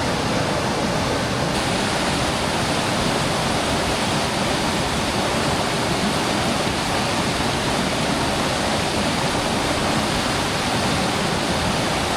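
Mountain creek water rushing over rocks, a steady, even noise.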